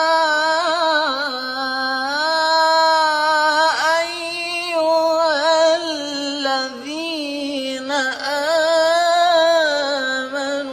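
Unaccompanied Quran recitation (tarteel) by a young man's voice, drawn out in one long melismatic passage: sustained, fairly high notes that waver in ornaments and slide up and down in pitch, with only brief breaks.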